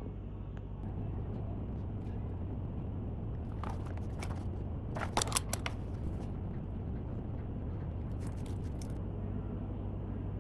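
A steady low hum with three short clusters of sharp clicks, about four, five and eight seconds in; the clicks just after five seconds are the loudest.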